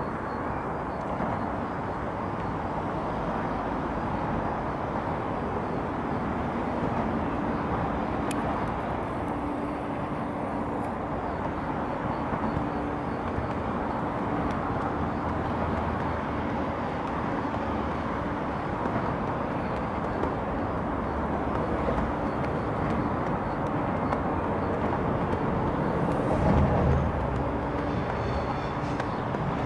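A train running by: a steady rumble of rolling noise with a faint steady hum, swelling briefly louder about twenty-seven seconds in.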